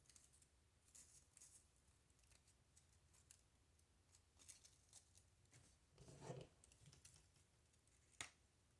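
Near silence with faint rustling and light clicks of paper flowers and craft materials being handled, and one sharper click near the end.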